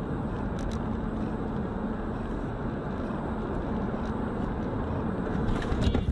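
Car driving: steady road and engine noise, getting louder right at the end.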